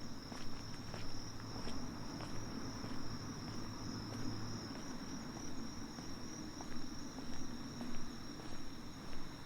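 Night insects trilling steadily in one continuous high band, with soft footsteps at a walking pace. A low hum stops about halfway through.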